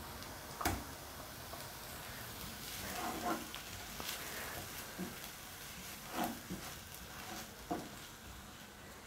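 Chopped onion and garlic sizzling in hot oil in a nonstick frying pan, with a wooden spatula stirring and knocking against the pan a few times, the loudest knock near the start.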